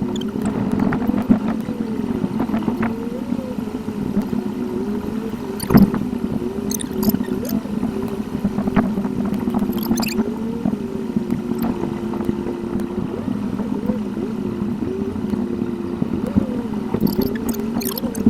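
A car's engine and road noise in a dashcam recording, sped up eightfold. The engine note is pitched up and keeps wavering up and down, with scattered sharp clicks, the loudest about six seconds in.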